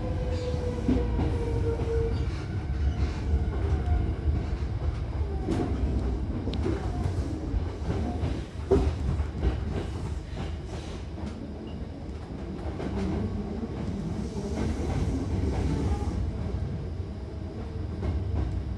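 Hankyu electric train heard from inside the car: a steady rumble of wheels on rails with scattered rail clicks, and a whine falling in pitch near the start. Near the end the train is coming into a station.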